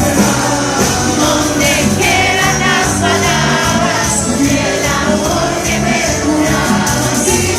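A live band playing a medley with a singer over a steady beat.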